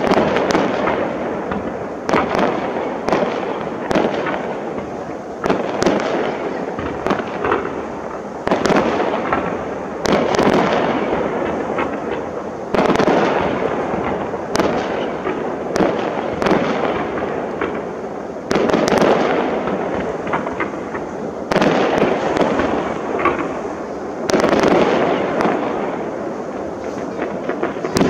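Aerial firework shells bursting one after another, a bang every second or two, each trailing off in a drawn-out rumbling echo.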